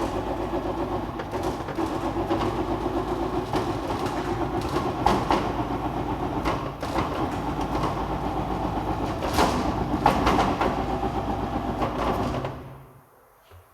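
Steady machine running noise, a low hum with rattles and clicks, that dies away quickly near the end.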